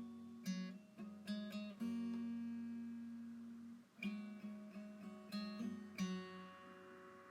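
Background music: acoustic guitar strumming chords in a few struck strokes, the last one about six seconds in left ringing and fading out.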